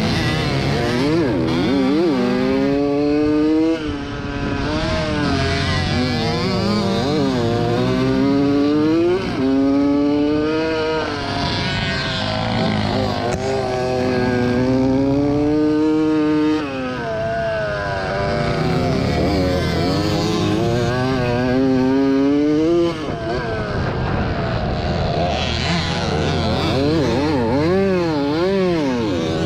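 Two-stroke 80 cc motocross bike engine, a 1987 Yamaha YZ80, racing hard. Its pitch climbs and then drops sharply about four times as the rider shifts gears or backs off the throttle.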